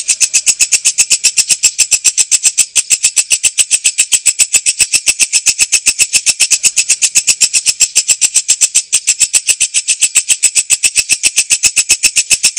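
Walang kecek, an Indonesian katydid-type insect, calling: a fast, even train of sharp, high chirps, about eight a second, without a break.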